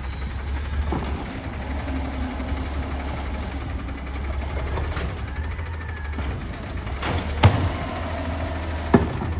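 Peterbilt 320 garbage truck's diesel engine running with a steady low rumble, broken near the end by two sharp bangs about a second and a half apart.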